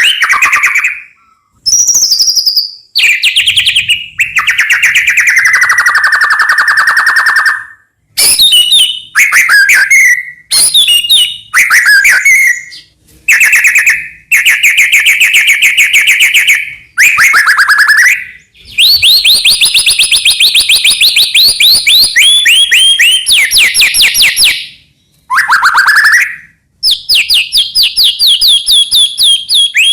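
White-rumped shama (murai batu) singing loud, varied song phrases: rapid trills, chatters and whistled notes, each phrase lasting one to a few seconds with short pauses between.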